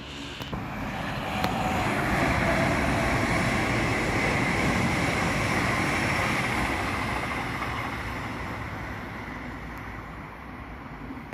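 Regional electric multiple-unit train passing at speed: the running noise swells to its loudest after about two seconds, then slowly fades as the train draws away.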